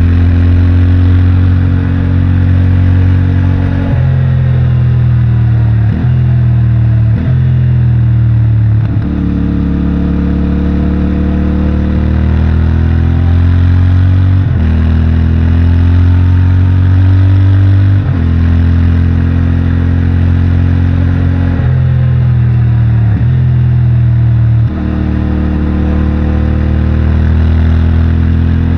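CFMOTO 450MT's 449 cc parallel-twin engine and stock exhaust under load on a winding road, its pitch climbing and falling as it is ridden through the gears. The note breaks off briefly about ten times for gear changes, each time picking up at a new pitch.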